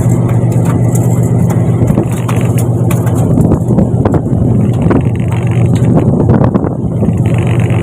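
Fishing boat's engine running steadily with a constant low hum, with scattered knocks and clatter over it.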